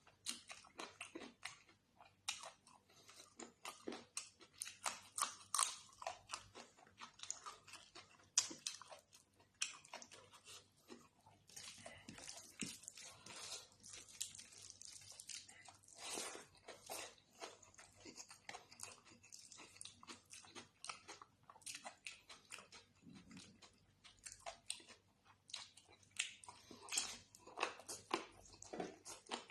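Close-miked eating sounds: a person chewing and biting into a meal of chicken curry and rice, with dense, irregular wet mouth clicks and occasional crunchy bites.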